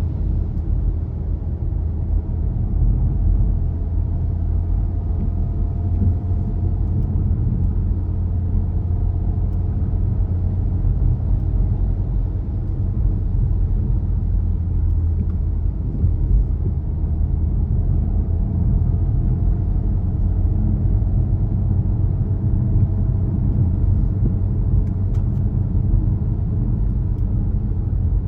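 Car driving at a steady pace: a constant low road and engine rumble with a faint engine tone that wavers slightly in pitch.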